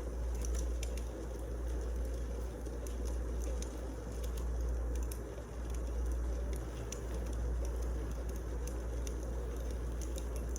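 Wood fire burning in a fireplace: a steady low rumble and hiss with many small, scattered crackles and pops.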